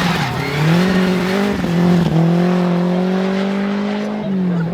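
Rally car engine accelerating hard through the gears. The pitch climbs and falls back at three upshifts: about a second in, around two seconds in, and near the end.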